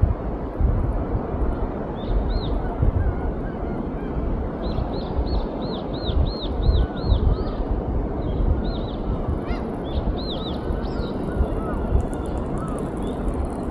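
Waves and wind on a sandy beach make a steady low rumble, and from about two seconds in birds call over it in quick runs of short, high, arched chirps, several a second, with fainter lower calls between.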